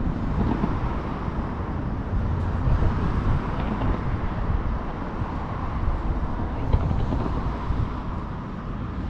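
Fireworks display heard outdoors: a continuous low rumble of distant shell bursts and their echoes, swelling and fading, with a few faint crackles and no single sharp bang.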